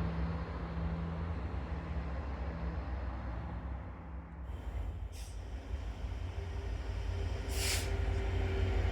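Low rumble of a train, growing louder toward the end as it approaches, with two short hisses, about five seconds in and again near the end.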